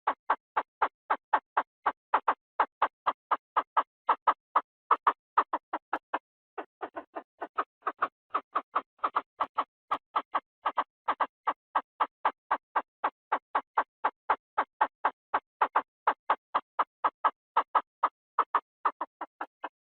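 Chinese francolin calling: a fast, steady series of short clipped notes, about four to five a second, with a brief break about six seconds in.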